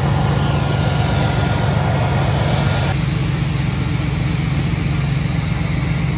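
Large vintage racing car's engine running loud and steady, its exhaust throwing flames, with no rise or fall in pitch. The higher part of the sound drops back about three seconds in.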